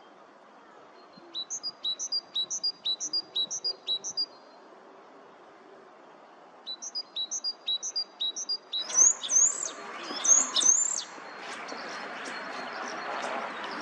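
A small songbird singing: two phrases of the same high note repeated about three times a second, then a louder run of varied notes about nine seconds in, over a background hiss that rises at that point.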